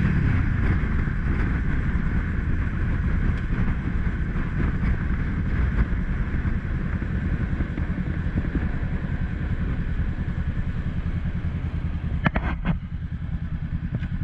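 Motorcycle running on the road, a steady rumble throughout, with a short clatter of sharp clicks near the end.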